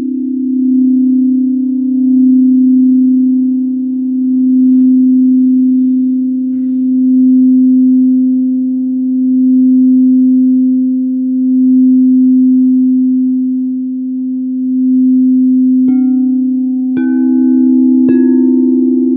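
Singing bowl sounding one steady low tone with an overtone, its loudness swelling and fading every couple of seconds. Near the end, three strikes about a second apart each add a higher ringing tone over the drone.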